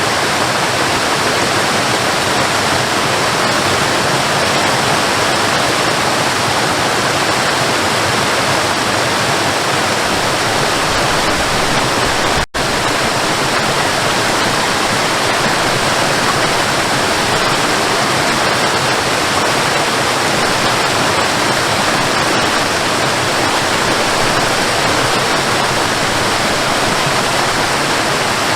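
Waterfall: a steady rush of falling water, with a brief break about twelve seconds in.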